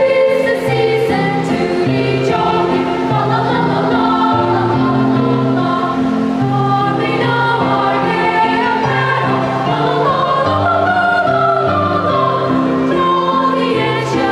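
Children's choir singing a Christmas carol in sustained, harmonised notes.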